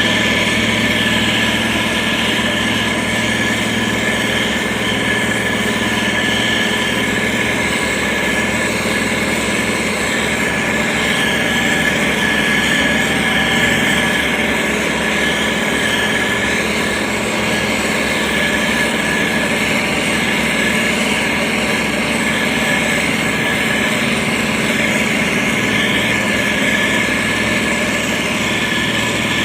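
Diesel engine of a heavy road-construction machine running steadily, a constant drone with a few steady whining tones over it.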